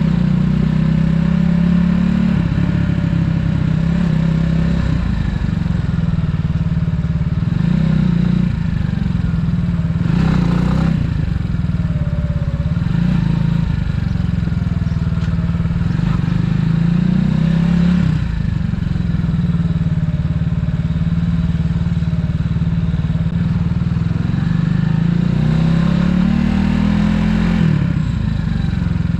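Italika 250Z motorcycle's single-cylinder engine running under way, its pitch climbing as it accelerates and dropping sharply several times as the rider shifts or rolls off the throttle.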